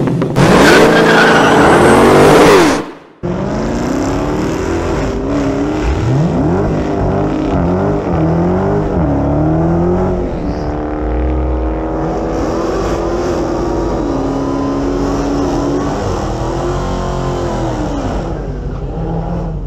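A loud opening burst of sound that cuts off sharply about three seconds in. Then a Dodge Challenger SRT Hellcat's supercharged 6.2-litre HEMI V8 in a burnout, its revs rising and falling again and again as the rear tyres spin.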